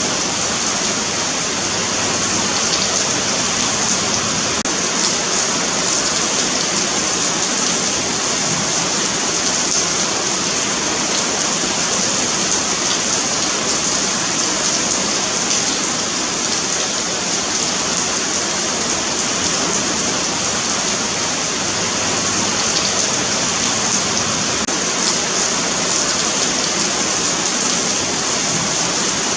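Steady rain falling on a paved sidewalk, an even continuous hiss of drops on concrete.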